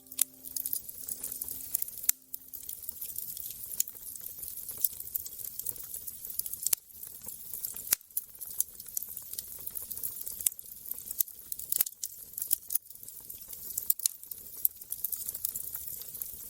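Wood fire crackling, with many irregular sharp pops and snaps over a soft steady hiss. A held musical tone fades out about a second or two in.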